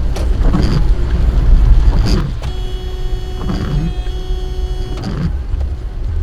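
Car driving on a rain-soaked road, a steady low rumble of tyres and road noise with passing swishes of water. A steady pitched tone sounds for about two and a half seconds in the middle, with a brief break.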